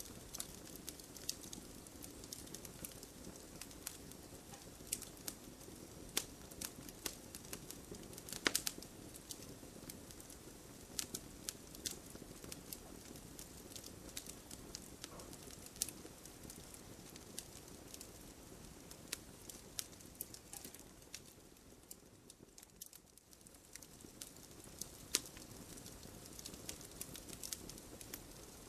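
Wood fire burning in a fireplace: a low steady rush of flames with irregular sharp crackles and pops from the burning logs, a cluster of louder snaps about a third of the way in. The flame noise briefly drops away a little past the three-quarter mark.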